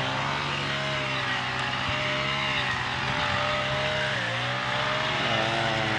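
A small engine running steadily, its pitch wavering a little and dipping briefly about four seconds in.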